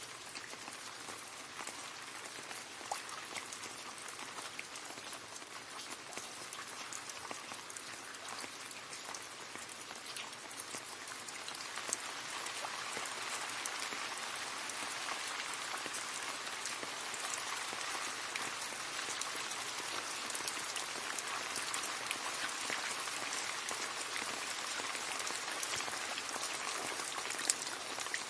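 Rain falling into a puddle: a steady patter of drops splashing on water, with many small separate drop ticks. It grows a little heavier about midway.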